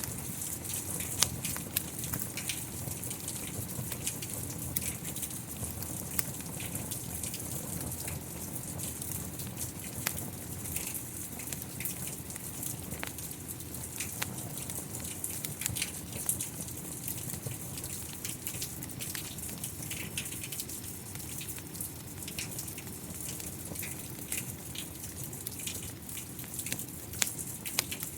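Steady rain hiss with a low rumble, mixed with frequent sharp crackles and pops from a wood fire, one louder pop about a second in.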